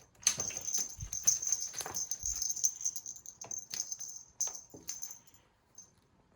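A cat toy rattling and jingling in quick, irregular shakes as it is played with, with two dull thumps about one and two seconds in; it stops shortly before the end.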